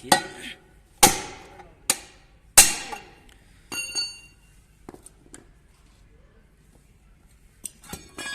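Hammer blows on a steel flywheel starter ring gear, driving the worn ring gear off a truck flywheel: about five sharp metallic strikes in the first five seconds, one of them ringing on, then a pause and a few light clinks near the end.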